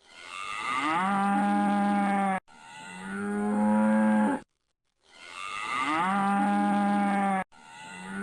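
Cow mooing: four long moos, each sliding up and then held on one pitch for about two seconds. Each moo ends in a sudden cut, and the second pair matches the first pair.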